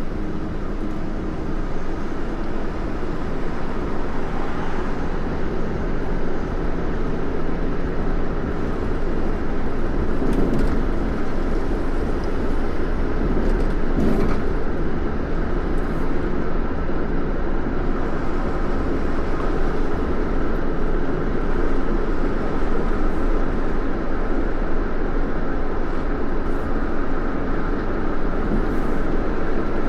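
Steady noise of a car on the move, with a low engine hum under the road noise.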